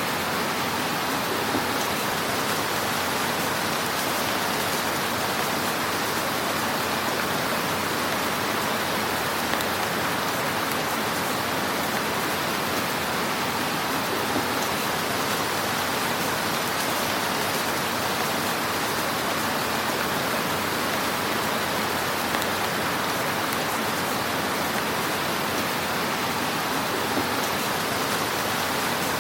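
Wood fire crackling in a fireplace: a steady, dense hiss of fine crackles, with a few slightly louder pops.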